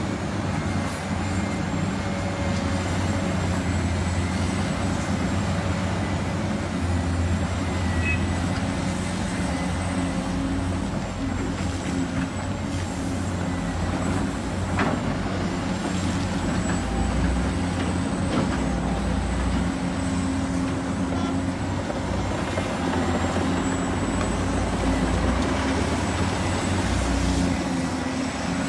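Heavy construction machinery engines running steadily, a continuous low rumble with no break.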